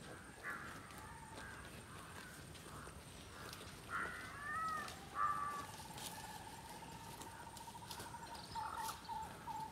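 Outdoor ambience with birds calling: a few loud, harsh calls about four to five seconds in, then a long, steady high note that breaks into short repeated notes near the end.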